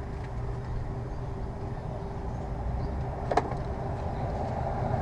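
Steady low rumble of background noise, with a single sharp click about three and a half seconds in.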